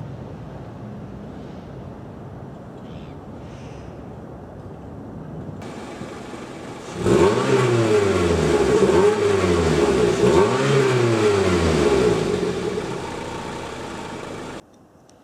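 Suzuki Ignis Sport's 1.5-litre four-cylinder engine idling through its exhaust, then revved three times in quick succession about seven seconds in, louder, before settling back toward idle. The sound cuts off abruptly near the end.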